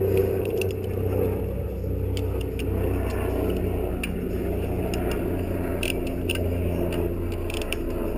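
A steady low mechanical hum, engine-like, with a few light clicks and taps over it.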